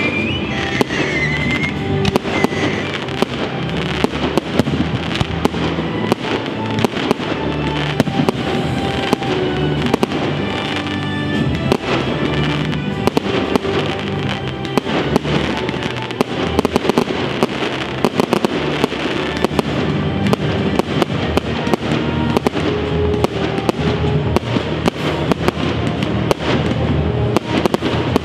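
Fireworks display: a rapid, continuous run of bangs and crackling bursts, over music playing along with it.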